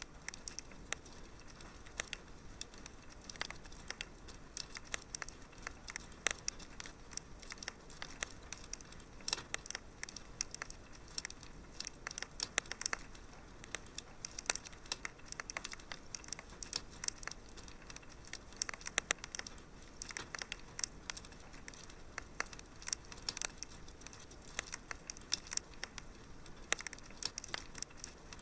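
Wood fire crackling in a fireplace: irregular pops and snaps, some sharper than others, over a soft steady hiss.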